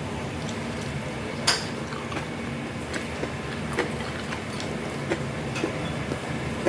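A person eating: scattered short clicks and crunches of chewing and of utensils on dishes, the sharpest about a second and a half in, over a steady low hum.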